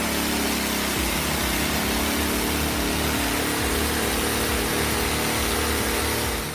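Wood-Mizer LT-15 portable band sawmill running: a steady motor hum with an even hiss over it, unchanging throughout.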